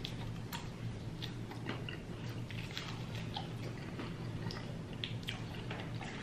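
Close-up chewing of food, with scattered small clicks and mouth sounds at irregular intervals over a steady low hum.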